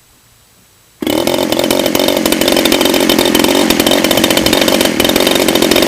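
DLE 30 single-cylinder two-stroke gas engine for RC aircraft catching about a second in and then running steadily at a loud, even pace, a fairly new engine still in break-in being warmed up.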